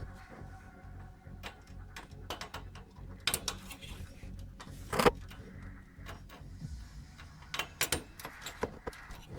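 Irregular clicks and clinks of tools and metal parts being handled during a teardown of an old oscilloscope, with a sharper knock about five seconds in and a quick run of clicks near the end.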